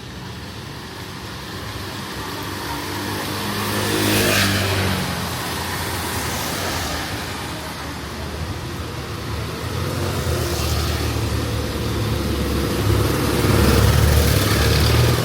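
Motor vehicles passing close on a city street. An engine rises and goes by about four seconds in, with a brief rush of tyre noise, and another engine grows louder near the end.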